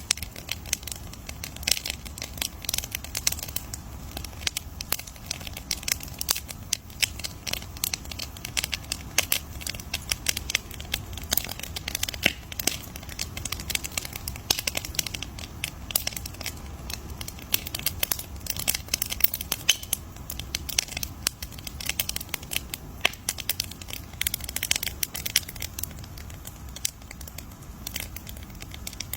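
Campfire crackling steadily: dense, irregular sharp pops and snaps from burning wood over a low rumble.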